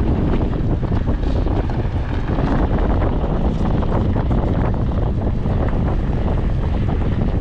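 Wind buffeting the microphone: a loud, steady, low rumble with crackling gusts.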